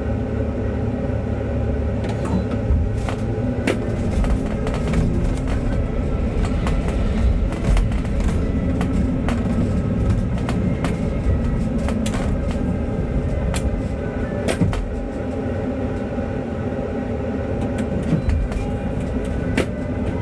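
Inside a moving bus: the engine hum and road noise run steadily, with frequent short rattles and knocks from the cabin fittings.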